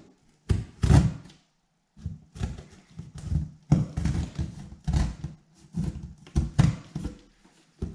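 Cardboard being handled and worked: an irregular run of dull thunks and scrapes, several a second, with short pauses between.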